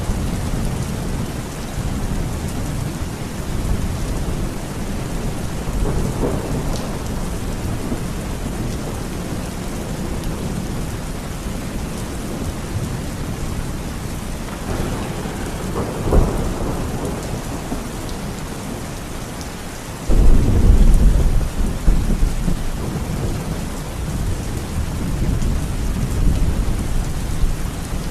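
Steady heavy rain with rolling thunder: low rumbles swell and fade, a short sharp crack comes a little past halfway, and a loud thunderclap breaks suddenly about three quarters of the way in, then rumbles away.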